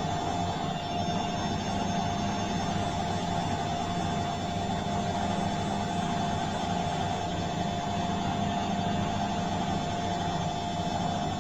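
Bosch washing machine running steadily: an even mechanical hum with a constant whining tone over it, unchanging throughout.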